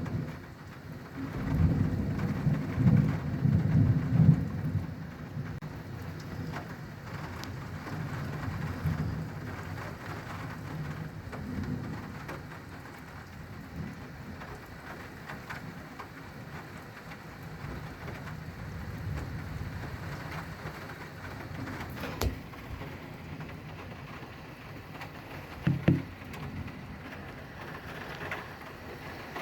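Thunder rumbling over steady rain: a loud low peal starts about a second and a half in and dies away over the next several seconds, while rain keeps falling throughout, with a couple of sharp knocks later on.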